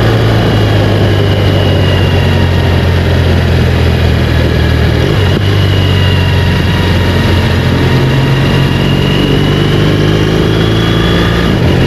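BMW GS Adventure motorcycle's boxer-twin engine and exhaust running at a steady cruise, its pitch rising a little near the end, with wind noise over the microphone.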